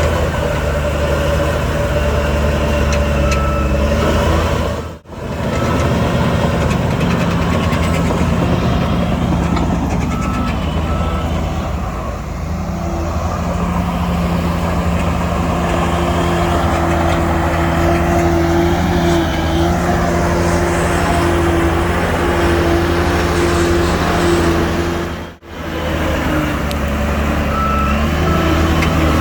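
Diesel engines of heavy earthmoving machinery, a bulldozer and dump trucks, running steadily under load. A reversing beeper sounds repeatedly for several seconds early on and again near the end.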